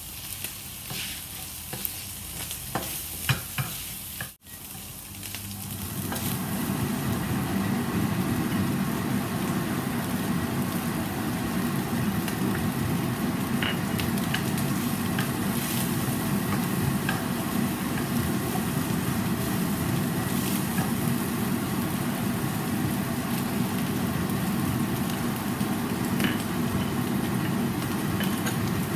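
Minced pork frying in a nonstick frying pan, stirred and scraped with a wooden spatula. It starts with scattered clicks of the spatula. After a short break about four seconds in, a louder steady sizzle sets in as chopped garlic and shallots fry with the pork, with an occasional click of the spatula against the pan.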